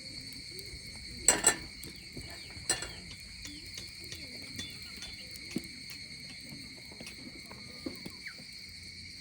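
Steady high-pitched chirring of insects. Sharp knocks break in twice about a second in and once near three seconds.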